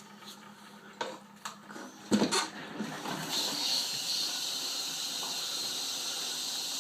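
Bendix 7128 washing machine taking in water: a few clicks and a knock, then from about three seconds in a steady hiss of water running in.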